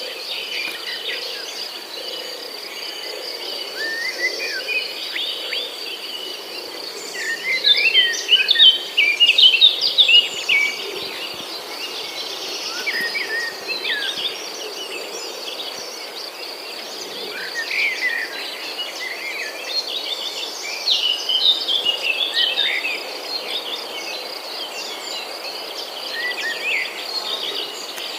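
Wild songbirds chirping and twittering in many short, quick high notes over a steady high-pitched trill, with busier stretches about a third of the way in and again past two-thirds.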